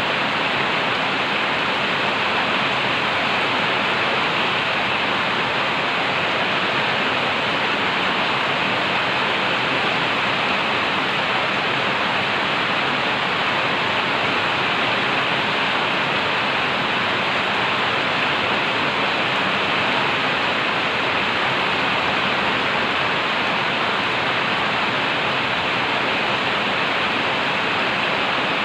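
Heavy rain pouring steadily, a dense even hiss without let-up.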